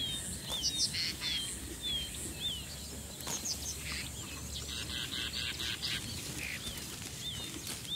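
Wild birds calling in the bush: a short, falling whistle repeated about twice a second, with other scattered chirps over a faint, steady background.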